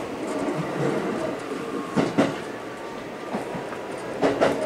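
Local electric train running at speed, heard from inside the car: a steady rumble, with two double clicks about two seconds apart as the wheels pass over rail joints.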